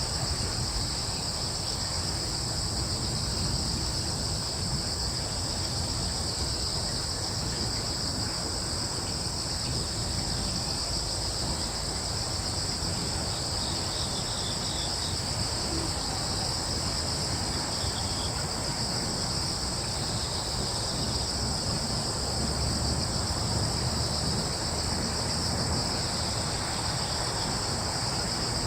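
A steady chorus of crickets trilling without a break, in two high, even bands, over a low continuous rumble.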